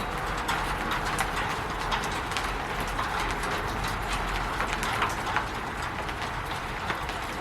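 Rain falling on a roof: a steady hiss of rain with many irregular, sharp taps of drops striking the roof.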